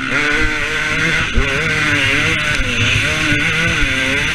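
KTM 250 SX two-stroke motocross bike engine revving up and down as the throttle is worked, over a steady rushing hiss.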